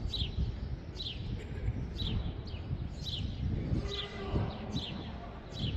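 A bird repeating a short, high, falling chirp about once a second, over a steady low outdoor rumble.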